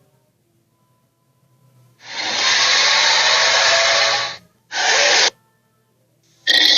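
Cartoon sharptooth dinosaur Red Claw screeching: a loud, rasping, hissy call of about two seconds, then a short second burst, and another call starting near the end.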